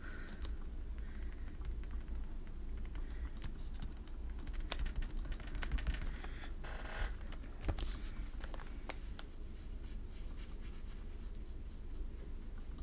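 Irregular light taps and soft scratches of watercolor being dabbed onto a paper page, over a steady low hum.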